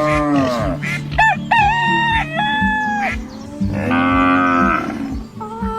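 Farm animal sound effects: cattle mooing and a rooster crowing with chicken calls, several separate calls in turn, over background music with a steady beat.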